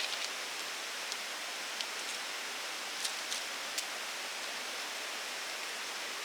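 Steady rain, an even hiss with a few short sharp ticks scattered through it.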